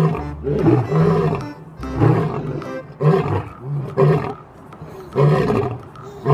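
Lion roars repeating about once a second, over background music.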